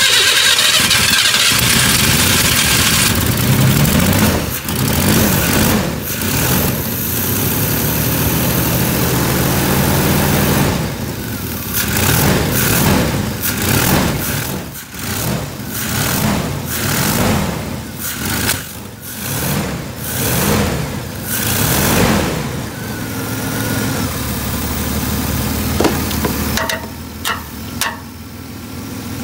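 Compact GM pickup truck's engine catching right at the start after a hard-starting spell, then run with repeated throttle blips, its pitch rising and falling over and over, before settling to a steadier idle near the end.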